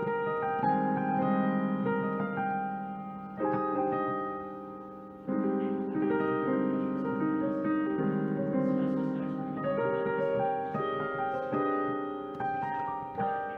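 Slow solo jazz piano: soft chords struck and left to ring and fade, with a long decay around four to five seconds in before a new chord comes in.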